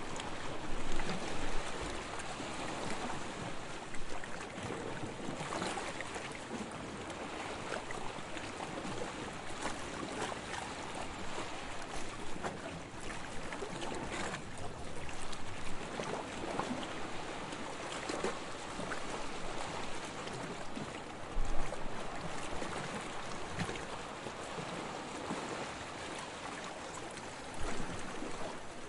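Small waves lapping on a sandy shore: a continuous wash of water that swells and eases irregularly, with a few louder splashes, the strongest about two-thirds of the way through.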